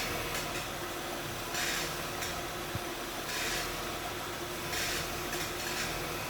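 2010 Honda Odyssey's power steering pump hissing under load as the steering wheel is turned, over the engine idling; the hiss comes and goes in surges about every one and a half seconds. It is the same noise the pump makes when the AC is switched on.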